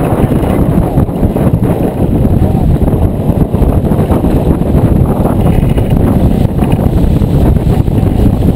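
Wind buffeting the microphone aboard a J24 sailboat under way: a loud, continuous low rumble with no steady tone.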